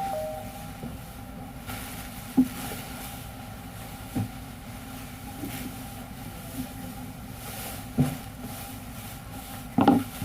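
A machine humming steadily, with a short sharp knock now and then: four times, the loudest near the end.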